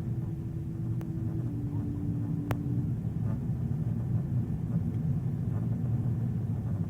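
Steady low rumble of a Boeing 777 during landing. A faint steady hum drops slightly in pitch about a second and a half in and stops about three seconds in, with a single click near the middle.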